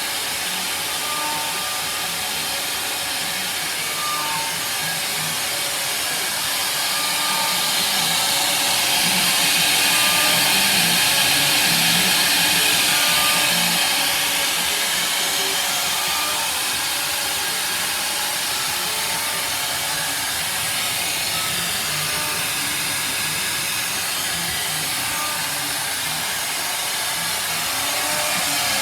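Homemade CNC machine running: a steady motor hiss that grows louder for a few seconds in the middle, with short faint tones from the axis motors coming and going.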